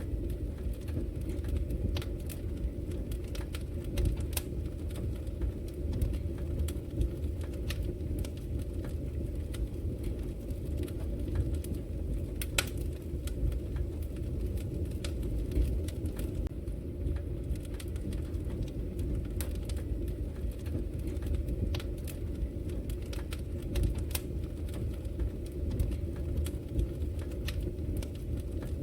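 Wood fire crackling, with sharp pops scattered irregularly over a steady low rumble.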